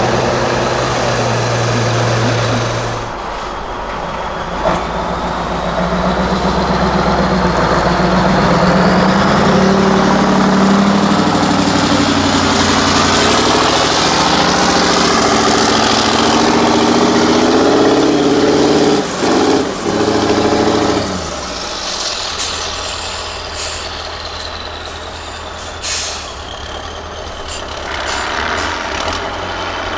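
Diesel engine of a Mercedes-Benz 8x8 trial truck working under heavy load, its pitch climbing steadily for about fifteen seconds, then dropping back to a low steady run about two-thirds of the way in. A few short sharp sounds, including one near the end.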